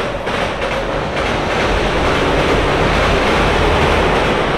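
A train running past on the rails: a loud, steady rumble and rail noise that swells about a second in and then holds.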